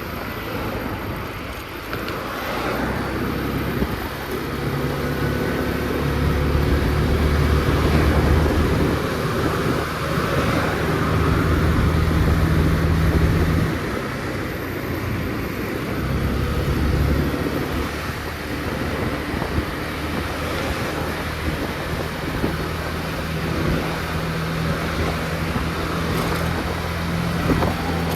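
Motor scooter engine running during a ride, with road and wind noise around it. It grows louder for several seconds and eases off suddenly about halfway through, then swells again briefly.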